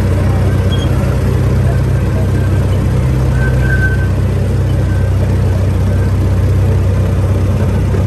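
Small amusement-park train running along its track, with a steady low engine drone.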